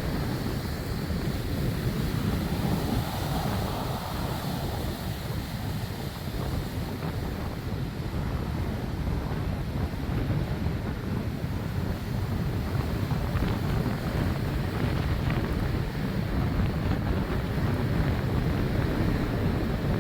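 Strong, gusty thunderstorm winds of around 40 mph rushing and buffeting the microphone in a continuous low rumble.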